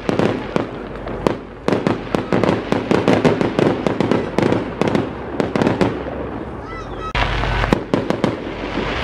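Fireworks salute: a rapid, irregular string of cracks and bangs as shells are launched and burst overhead, thinning briefly about two-thirds of the way in before a louder rush of noise.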